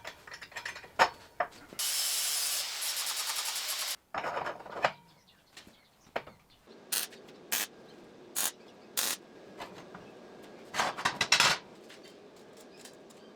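Metal parts knocking and clicking as they are handled, with a loud two-second ratcheting, rasping mechanical noise about two seconds in and a quick cluster of knocks near the end.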